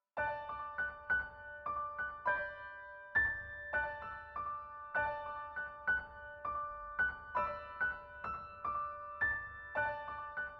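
Gentle piano background music: a slow melody of single ringing notes, about two a second.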